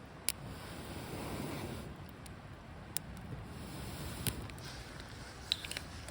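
Log-cabin-stacked wood campfire burning, a steady low rush with scattered sharp crackles and pops, a handful over a few seconds.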